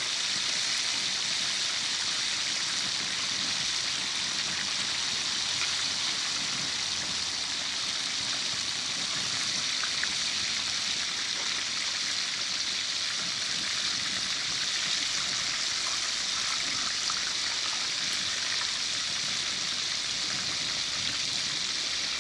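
Chicken pieces deep-frying in oil in a discada: a steady, even sizzle.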